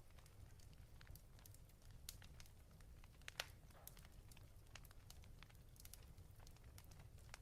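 Fireplace fire crackling faintly, with scattered small pops over a low steady rumble; one louder pop about three and a half seconds in.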